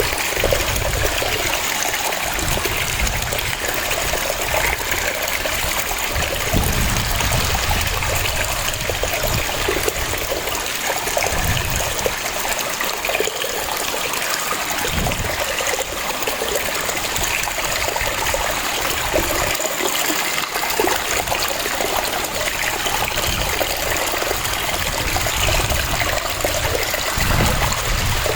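Waterfall: water cascading and splashing in a steady rush, with a low rumble that swells and fades.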